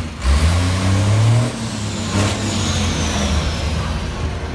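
Vehicle engine revving up briefly and then dropping back, running on steadily, with a faint high whine slowly falling in pitch.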